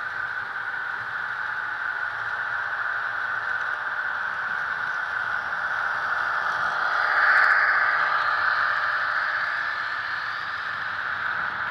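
HO-scale model train rolling along the track: a steady, hissing rattle of small wheels on rail that swells about seven seconds in and then eases back.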